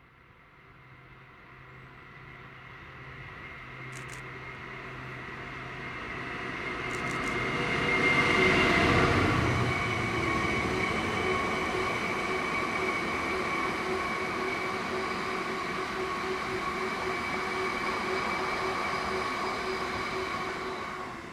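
A train passing: it is heard approaching and growing louder, goes by closest about nine seconds in, then the carriages or wagons roll past steadily for some ten seconds before the sound drops away near the end.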